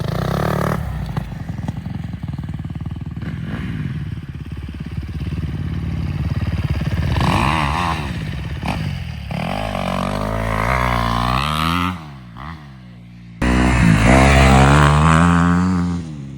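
A 250 dirt bike's engine running at low revs, then revving up and down several times from about halfway through. It drops away briefly, then gives a loud sustained rev for about two seconds near the end before easing off.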